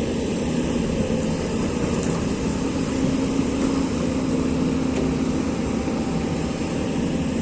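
Excavator's diesel engine running steadily, a low even drone with no change in pace.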